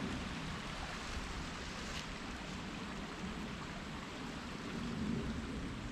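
Water of a small waterfall on a stream running steadily, with wind rumbling on the microphone.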